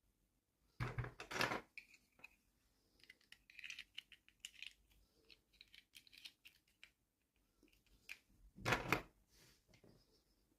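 Toy packaging being handled and opened: rustling and clicking, with two louder rasping bursts, one about a second in and one near the end.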